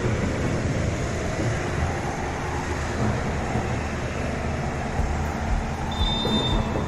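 Steady roadway noise of passing traffic with low rumble, and a brief high-pitched tone about six seconds in.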